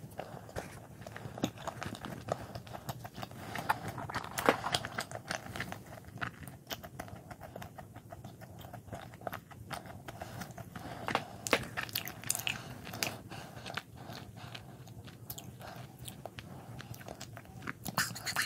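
Close-miked chewing of a soft cream-filled bun, with many short wet mouth clicks.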